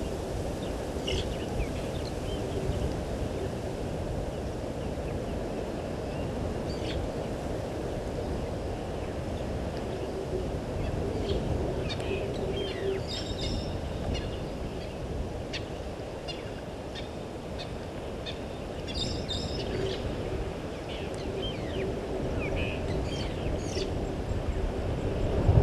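Wild birds giving scattered short chirps and calls over a steady low background rumble, with a faint steady hum.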